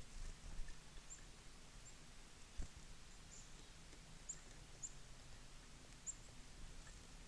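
Small birds at a winter feeder giving several faint, short, high-pitched call notes, scattered and unhurried, over a low background hum. A single soft knock a little before the middle.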